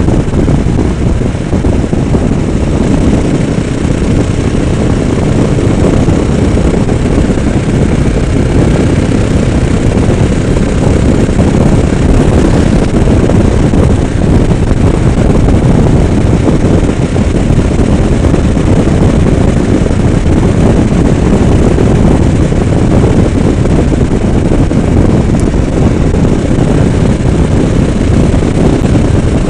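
Steady wind rush and road noise from a moving motorcycle, heavy in the low end, with the engine running underneath.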